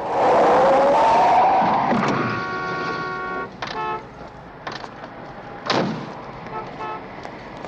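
A car's tyres screeching loudly as it pulls up hard, the squeal rising in pitch over about two seconds. A steady car-horn tone follows for about a second, and a short sharp knock comes near the end.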